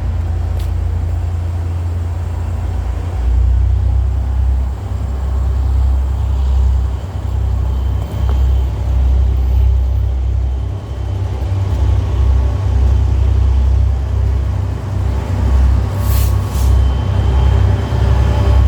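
Loud, continuous low vehicle rumble that rises and falls in level, with two brief hisses about sixteen seconds in.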